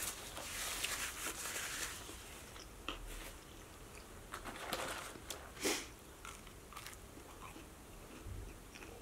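Close-miked eating sounds: chewing with wet mouth clicks and smacks, and a paper napkin rustling in the first couple of seconds.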